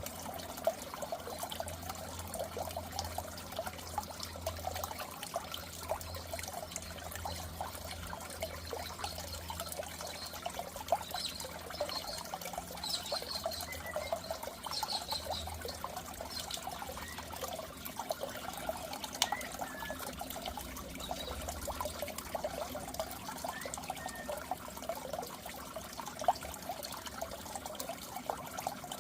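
Goldfish aquarium water trickling and splashing steadily, with a low hum underneath.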